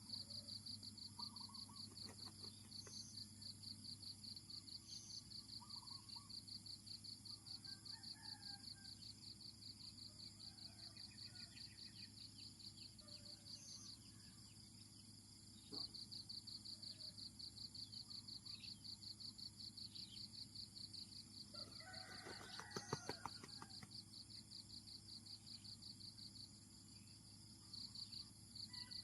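Faint, fast, even pulsing trill of an insect chirring, breaking off twice, with scattered short bird chirps and a brief louder burst of calls about three-quarters of the way in.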